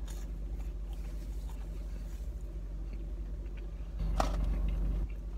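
Chewing a crispy fried chicken nugget, faint crunching over a steady low hum inside the car. About four seconds in, a sharp knock and a second of louder handling noise as a hand reaches for the cardboard fry carton.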